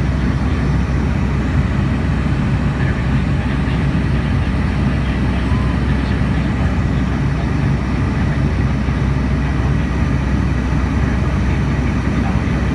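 Steady cabin drone of a Boeing 757 in flight, the engines and rushing airflow heard from inside the cabin, low and even with no changes.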